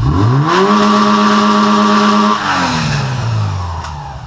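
2001 Subaru Forester's EJ25 flat-four boxer engine revved sharply from idle, held steady at high revs for about two seconds, then let fall back toward idle.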